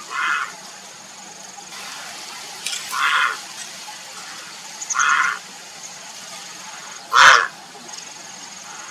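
Grey heron calling: four short, harsh calls about two seconds apart, the last one the loudest.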